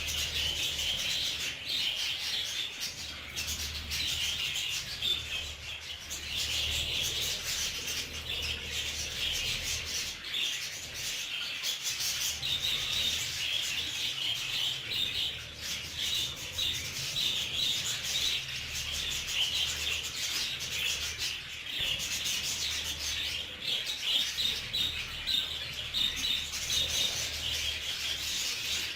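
Budgerigars chattering and warbling, a continuous scratchy flock chatter.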